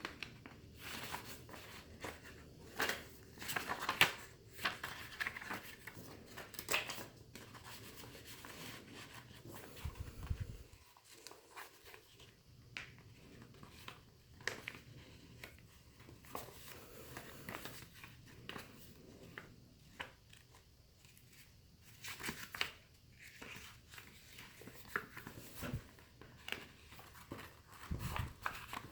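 Paper being handled: irregular rustling and crinkling with small clicks and scrapes, busiest at the start and again in the latter part, with a short lull in between.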